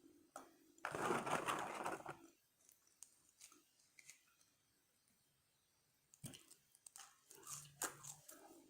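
Someone eating French fries at close range: a loud rustle lasting over a second about a second in, then, after a quiet stretch, scattered chewing sounds and small mouth clicks.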